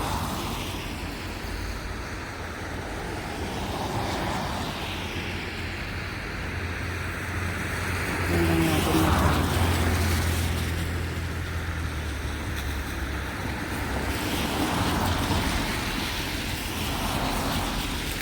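Road traffic: cars passing one after another, their tyre and engine noise swelling and fading, with a heavier vehicle's low engine hum loudest from about 8 to 13 seconds in.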